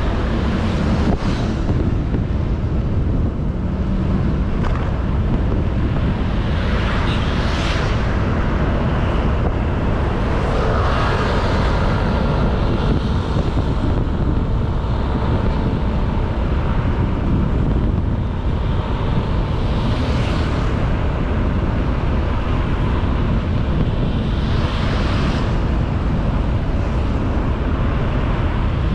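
Wind rushing over the action camera's microphone with engine and road noise from a moving Honda Beat 110cc scooter underneath; other vehicles pass a few times, swelling and fading.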